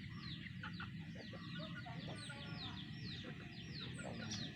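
Many small birds chirping: a dense run of short, high chirps that slide downward, several a second and overlapping.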